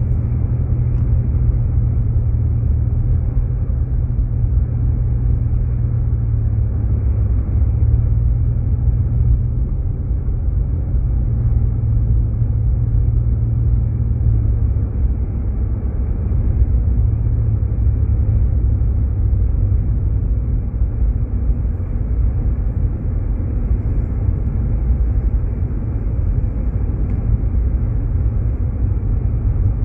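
Steady low road and engine rumble heard inside a Jeep Grand Cherokee driving on snowy roads, with no distinct events.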